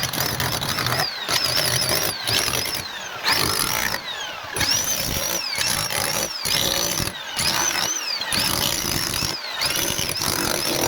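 Handheld power cutter cutting a groove for plumbing pipe: its high motor whine sags in pitch as the blade bites and climbs back again and again, with short breaks about once a second.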